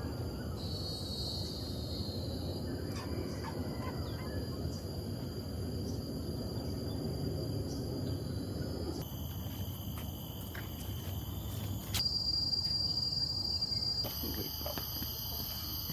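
Steady high-pitched insect chorus of cicadas or crickets in tropical forest, its pitch and loudness shifting abruptly a few times, over a low rumbling outdoor background.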